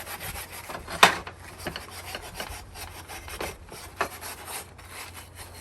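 Dish sponge scrubbing vinegar-soaked surface rust on an antique wood stove: repeated rasping rubbing strokes, with one sharp knock about a second in.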